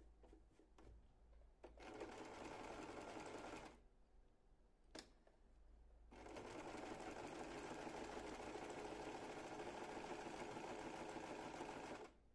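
Sewing machine stitching in two runs, a short one of about two seconds and a longer one of about six seconds, with a single click in the pause between them.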